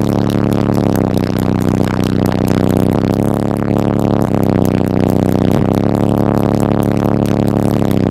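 Bass-heavy music played loud through a truck's car-audio subwoofer system: sustained low notes that change pitch every second or two.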